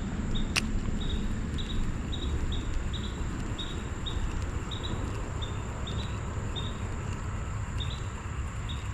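Insects chirping in short chirps, two or three a second at an uneven pace, over a steady high insect whine and a low steady rush. A single sharp click shortly after the start.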